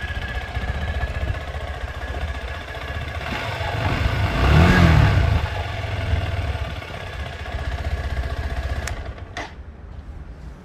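Hansom Bennett 125 motorcycle exhaust idling, with one throttle blip a little before halfway: the engine note rises and falls back to idle. Two short clicks near the end, as the sound fades.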